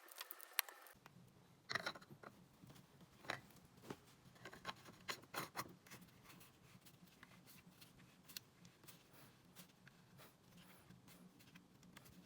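Faint handling noises: scattered light clicks and scrapes, busiest in the first half, over a low steady hum.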